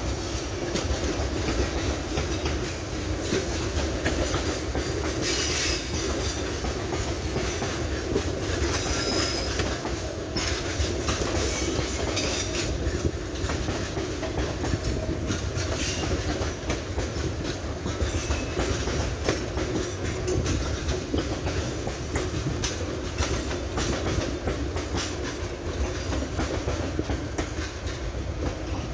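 Loaded freight wagons of a sand train rolling past, a steady rumble with the wheels clicking over rail joints. Now and then a brief faint wheel squeal rises above it.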